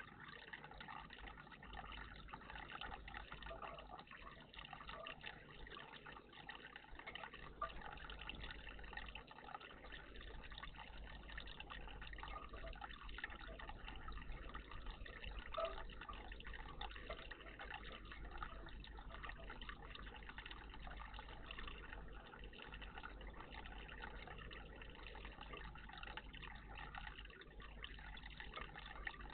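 Faint, steady trickle and splash of water in a garden bird bath.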